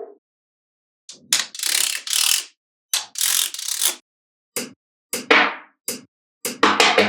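Small magnetic balls clicking and snapping together, with two longer rattling runs of many balls clattering against each other about a second in and three seconds in, then more separate sharp clicks.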